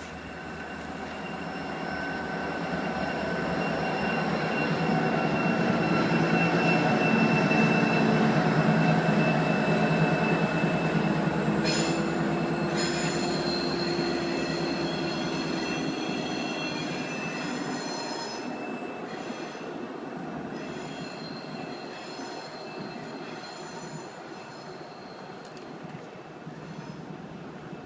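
A train passing close by, its rumble building to loudest about eight seconds in and then fading as it goes by. Its wheels squeal against the rails in several steady high tones, with a sharper squeal starting about twelve seconds in.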